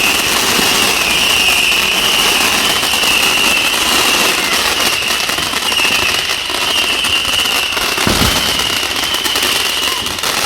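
A ground firework fountain burning, a steady hiss of spraying sparks with dense crackling and a constant high whistle over it. There is a low thump about eight seconds in.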